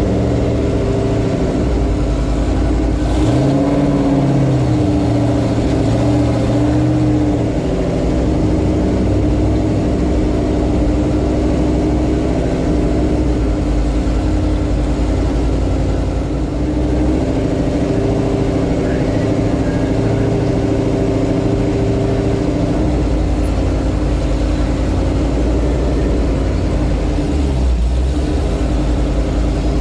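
Cammed GMC Sierra's LS V8 with a Brian Tooley Racing stage 4 camshaft, running under way and rising and falling in pitch with the throttle.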